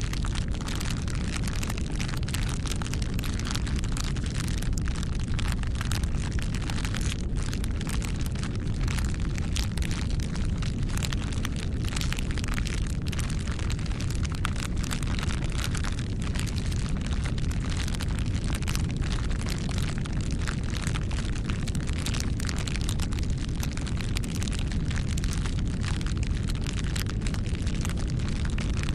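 Wood fire burning: a steady low rumble of flames with many small crackles and pops throughout.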